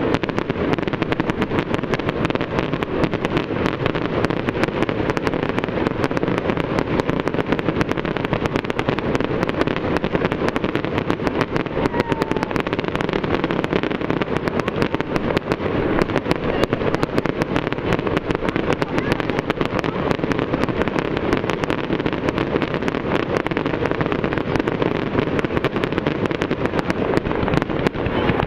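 Fireworks display going off: a dense, unbroken crackle of many pops and bangs, steady in loudness, from ground fountains and shells throwing sparks.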